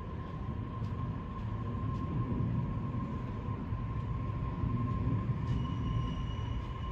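Tobu 60000 series electric train moving through the station: a steady low rumble with a thin, steady high tone over it, joined by a higher whine about five seconds in.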